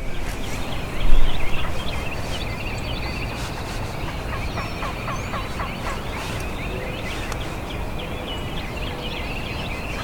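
Wild turkey gobbling amid many small songbird chirps, with a loud low burst about a second in.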